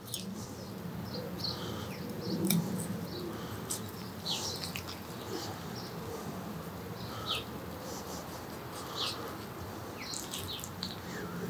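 Short bird chirps scattered irregularly through a low, steady background hum.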